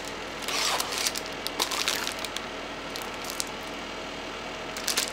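Paper and cardboard items being handled: rustling with scattered light taps and clicks, busier about half a second in and again near the end.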